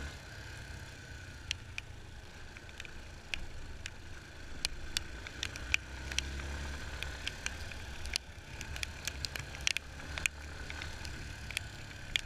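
Yamaha Fazer 250's single-cylinder engine running at a steady low speed, with scattered sharp ticks and clicks throughout.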